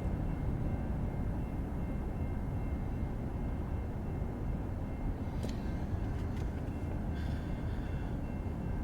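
Embraer regional jet's engines at takeoff power, a steady distant rumble with a faint high whine above it.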